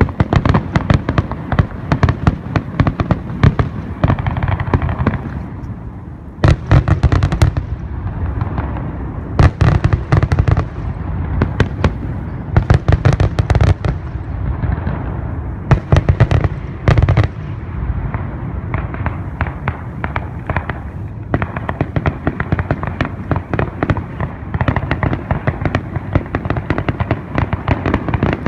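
Fireworks going off in rapid, continual succession: a dense barrage of crackling and popping with deep booming bangs, in louder clusters every few seconds.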